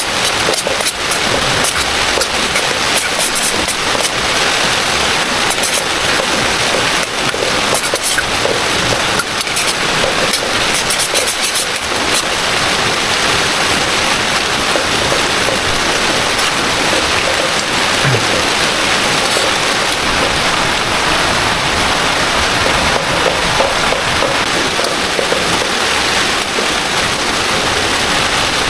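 Heavy rain, a loud steady hiss, with sharp drop impacts clicking over it through roughly the first half.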